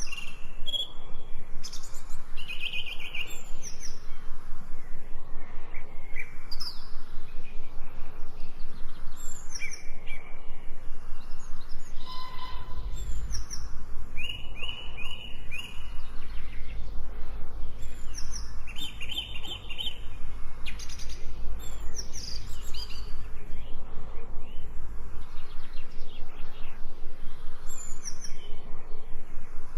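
Several birds chirping and calling in short high chirps and trills over a faint steady hiss, with a low rumble in the middle stretch.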